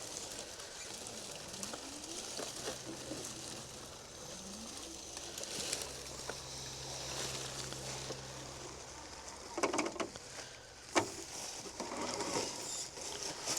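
Small electric RC crawler's motor whining in short rising bursts as it is throttled on and off, crawling down a slope, with a couple of sharp knocks near the end.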